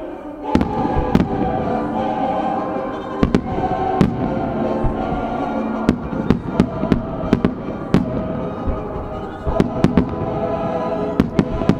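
Aerial firework shells bursting in a quick series of sharp bangs, more closely spaced in the second half, over music playing throughout.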